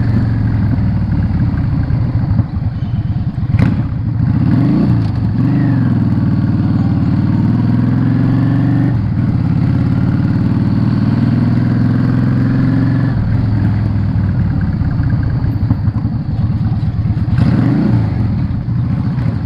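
Yamaha Drag Star 650's air-cooled V-twin engine running as the motorcycle is ridden through town, loud and steady. The engine note drops and picks up again about four seconds in and again near the end as the bike slows and accelerates.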